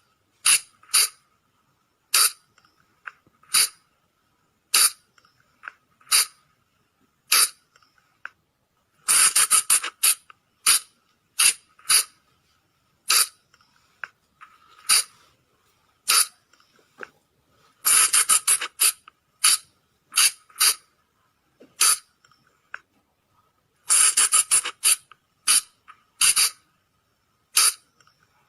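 Sunda flying lemur (colugo) calls: short, sharp, shrill squeaks. They are repeated every second or two, sometimes in quick runs of two to four.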